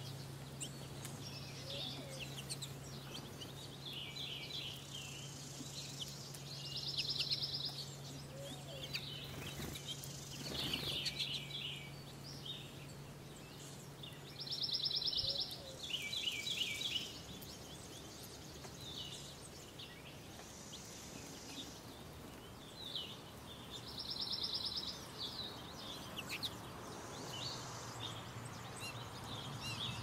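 Songbirds singing and chirping. A rapid, evenly pulsed high trill about a second long repeats three times, roughly every eight seconds, between shorter chirping phrases. A low steady hum sits underneath for the first half and stops.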